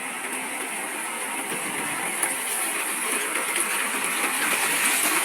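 Diesel engine of heavy earthmoving machinery running steadily, growing a little louder toward the end.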